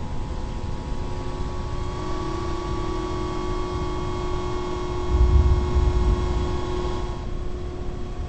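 Strong wind rumbling and buffeting, with a heavier gust about five seconds in, under a steady whistle of several held tones.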